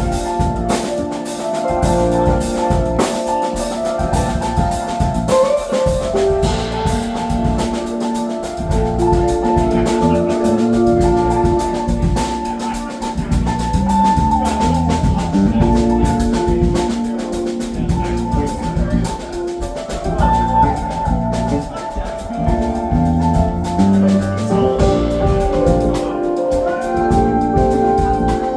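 Live funk band playing an instrumental passage: drum kit keeping a steady beat under held, ringing melodic lines.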